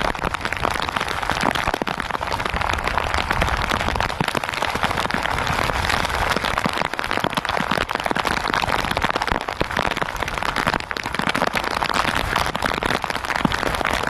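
Steady rain falling on an outrigger fishing boat and the sea around it, a dense hiss of many small drop hits.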